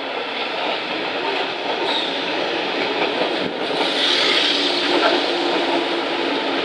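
JR 583 series electric train running into a station platform, its wheels and running gear getting louder about four seconds in as it draws near.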